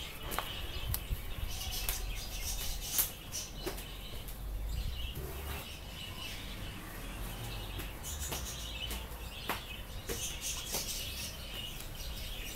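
Small birds chirping, with a few light clicks and knocks; the sharpest click comes about three seconds in.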